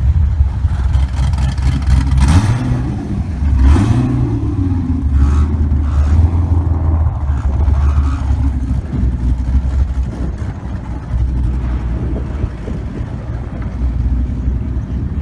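Loud performance car engine running with a heavy low rumble, revved up briefly twice in the first few seconds, then settling back to a steady lumpy run.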